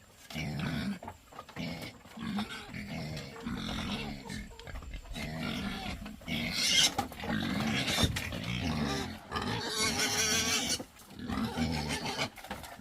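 An animal calling over and over in short, low-pitched calls, with louder, rougher, hissing calls about halfway through and again near the end.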